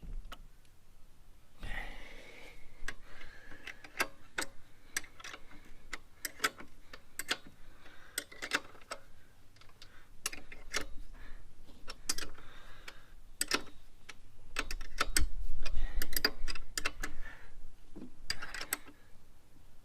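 Ratchet wrench clicking in short irregular runs while the front axle clamp nuts on a motorcycle fork leg are done up. A louder low rumble comes about three quarters of the way through.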